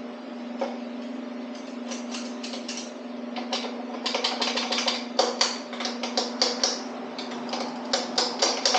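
Irregular light metallic clicks and taps of engine parts and hand tools being handled, sparse at first and coming a few per second from about four seconds in. A steady hum runs underneath.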